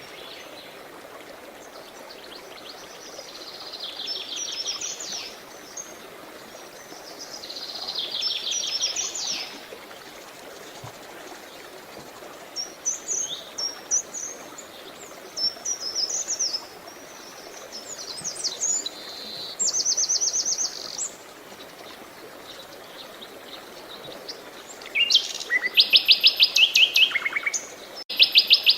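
Songbirds singing: short phrases of rapid, evenly repeated high notes come every few seconds and are loudest near the end. Under them runs a steady soft rush of flowing water.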